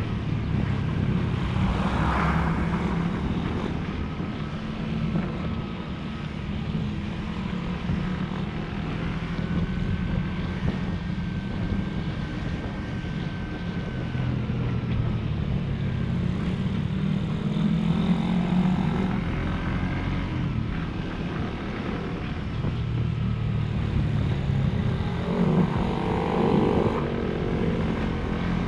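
Motorcycle engine running steadily while under way, a continuous low drone with road and air noise over it; its note rises and falls a few times with the throttle.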